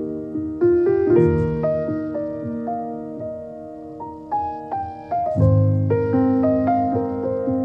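Background piano music: chords and single notes struck and left to fade, at a slow pace.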